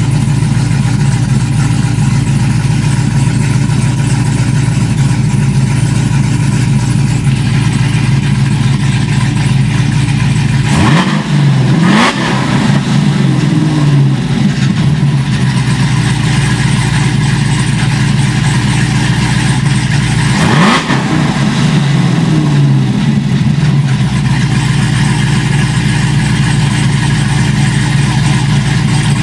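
2011 Cadillac CTS-V's supercharged 6.2-litre LSA V8 idling steadily, blipped twice, about a third of the way in and again about two-thirds in. Each rev climbs quickly and then winds back down to idle over a few seconds.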